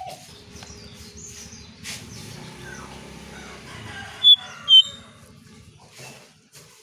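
Cingcoang coklat (lesser shortwing) calling: faint thin notes, then two short, loud, high chirps in quick succession a little past halfway.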